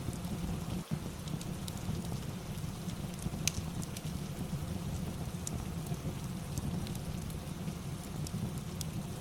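Steady rain ambience with a crackling fire on top: scattered sharp pops and ticks over the even rain noise, the loudest pop about three and a half seconds in.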